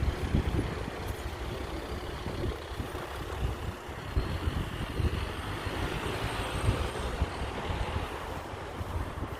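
Road traffic: vehicles driving round a roundabout, a steady road noise with gusty rumbling from wind on the microphone.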